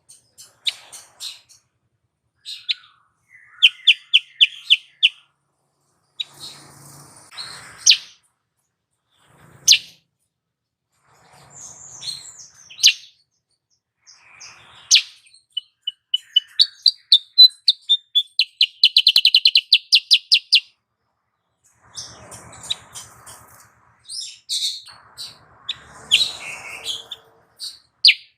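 Female kutilang sutra calling: scattered sharp chirps and short high trills. A long, fast, rattling trill comes in the middle, and harsher, buzzier calls come near the end.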